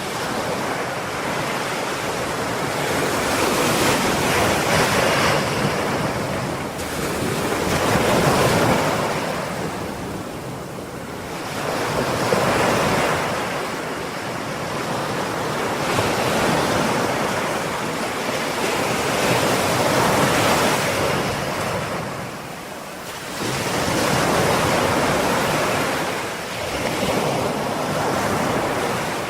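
Ocean waves breaking and washing on the shore, a steady surf that swells and ebbs every few seconds.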